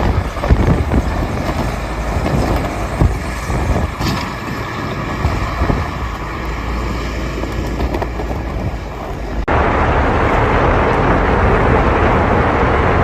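Road vehicle noise, a low rumble with a few thumps. About nine and a half seconds in it cuts abruptly to a louder, steady rushing noise.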